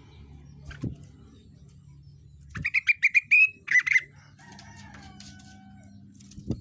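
Rengganis songbird singing: a burst of fast, loud chattering trills, followed by a few softer, falling whistled notes. A dull knock comes shortly before the song and another near the end.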